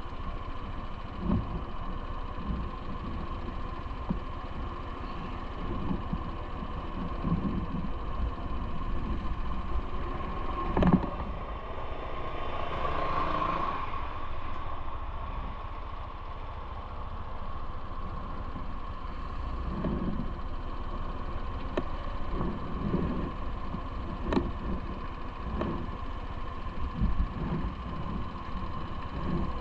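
Steady vehicle and road rumble heard while riding through city traffic, with scattered short knocks and a louder swell about thirteen seconds in.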